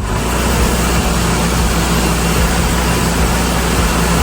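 Tow truck's engine running steadily at low revs, a constant low hum with a wash of mechanical noise, as the truck is manoeuvred to slide its lifting fork under a car.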